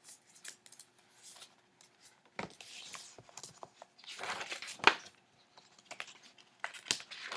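Paper rustling from a picture book being handled, its pages turned, in several short bursts with a sharper crackle about five seconds in.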